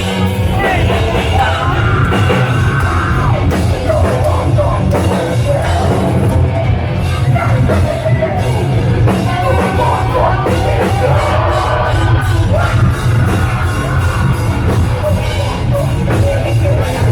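Live heavy metal band playing loudly: distorted guitars, bass and drums with yelled vocals.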